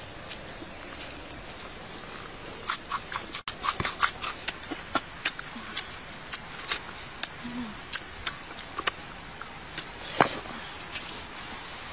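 Close-up eating sounds: lip smacks and wet chewing clicks, about three a second for several seconds, with a single louder rustling knock about ten seconds in.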